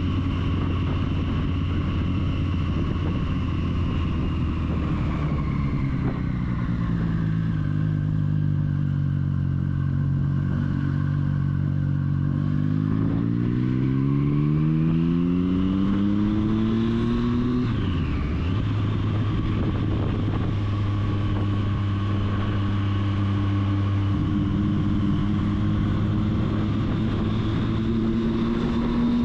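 Triumph Street Triple's three-cylinder engine running under way. The engine note drops about six seconds in, climbs steadily as the bike accelerates from about twelve to seventeen seconds, then falls sharply with an upshift and holds a steady cruising note.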